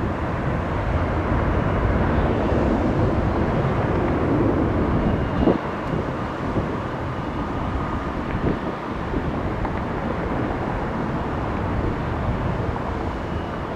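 Jet airliner engines, a steady rush that builds over the first few seconds and then slowly eases.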